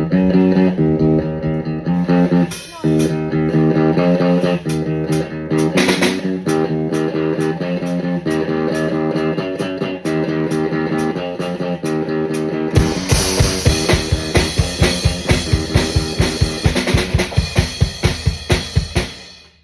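A guitar and a drum kit playing a rock song together: the guitar repeats a chord riff while the drums keep time. About two-thirds of the way through, the drums switch to a fast, even beat with a kick drum on every hit, about five a second. Both cut off together just before the end.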